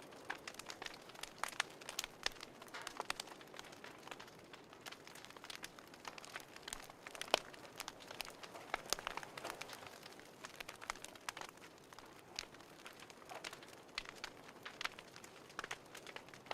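Fireplace fire crackling: irregular sharp pops and snaps over a faint steady hiss.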